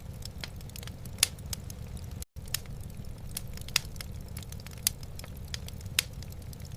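Wood fire burning in a fireplace, crackling with irregular sharp pops over a steady low rumble. A few pops stand out louder, and the sound cuts out for a split second a little past two seconds in.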